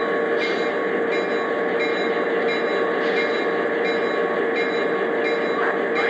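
Lionel O-gauge Santa Fe E8 model diesel locomotives running steadily on three-rail track: an even running hum with a constant whine and a faint regular tick about every 0.7 seconds.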